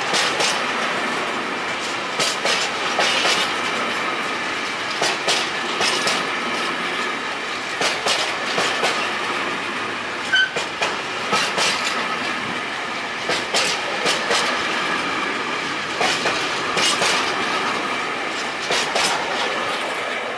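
Container freight train wagons rolling past. The wheels click over the rail joints in quick groups every couple of seconds as each wagon's bogies pass, over a steady rumble with a thin high whine from the wheels on the curve. The sound starts to fade near the end as the last wagon goes by.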